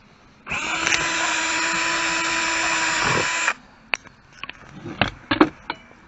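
Electric drill running steadily for about three seconds, drilling out a bolt hole in the saw's body, then stopping; several short clicks and knocks follow.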